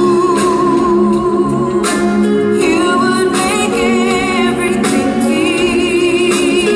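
Live concert music: a singer holding long notes with vibrato over band accompaniment.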